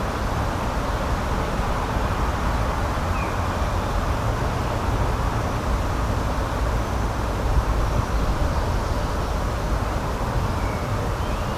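Steady outdoor rushing noise from a natural ambience, even throughout, with a couple of faint short chirps about three seconds in and near the end.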